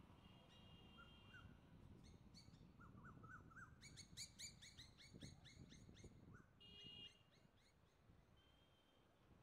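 Faint birdsong: a quick run of short rising chirps, about four a second, in the middle, with thin high whistles before and after.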